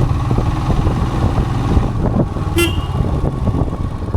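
Royal Enfield Himalayan motorcycle engine running steadily under way, with a short horn toot about two and a half seconds in.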